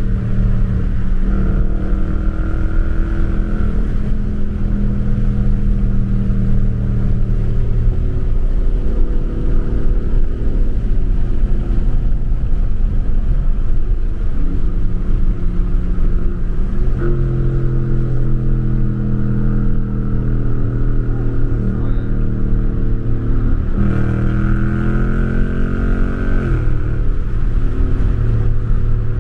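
Car engine heard from inside the cabin, cruising at highway speed over road noise. Its pitch steps up and down a few times, then near the end it climbs under acceleration and drops sharply as the transmission shifts up.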